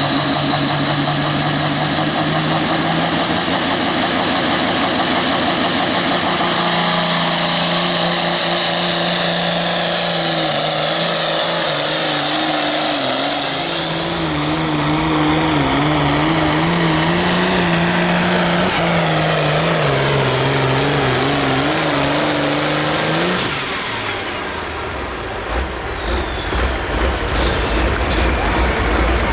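Pro field pulling tractor's turbocharged diesel engine making a pull under full load. A turbo whine climbs to a very high pitch, and the engine note wavers as it drags the sled. About three-quarters of the way through, the engine cuts off and the whine falls away. Low rumbling with a few thumps follows.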